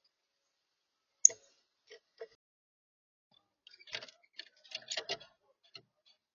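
Irregular sharp clicks and taps of birds pecking and handling seed at a backyard bird feeder. There is a loud single click about a second in, two softer ones soon after, and a quick run of taps a little before the end.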